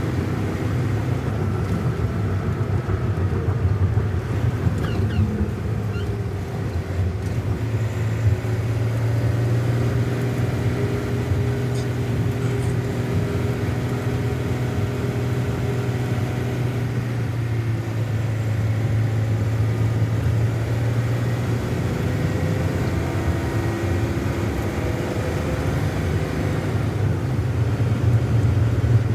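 Semi-truck's diesel engine running steadily with road noise, heard from inside the cab while driving; the low engine note drifts slightly up and down.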